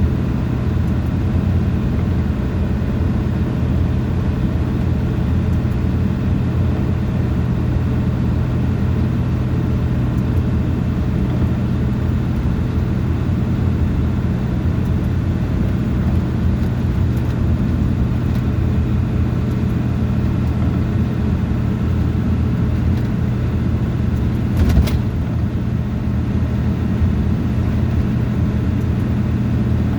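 Vehicle running down the road: a steady engine drone with continuous road noise. There is one brief knock about 25 seconds in.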